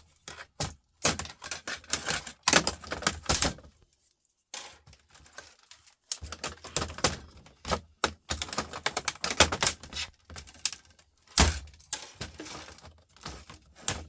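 Hard plastic laptop parts being pried apart and handled: a rapid, irregular run of clicks and clacks.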